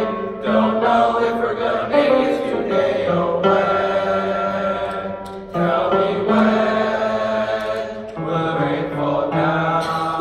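Baritone section of a male choir singing a rhythmic, chant-like verse together, holding and changing notes.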